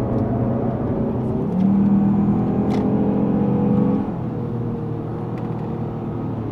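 Lexus GS450h's 3.5-litre V6 hybrid drivetrain pulling harder from about a second and a half in, then easing back to a lower, steady running note about four seconds in.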